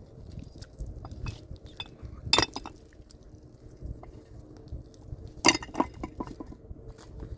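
Hard objects clinking and clattering: two loud sharp clinks with a brief ring, about three seconds apart, and smaller knocks and taps around them.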